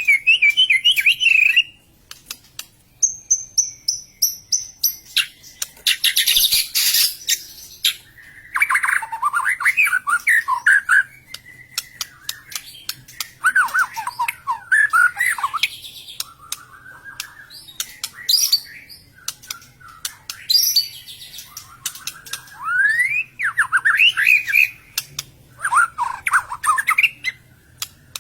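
White-rumped shama (murai batu) singing a loud, varied song of quick gliding whistled phrases, mixed with sharp clicking notes and a harsh rasping burst. This is the excited fighting-mood song that keepers call a bird in 'emosi'.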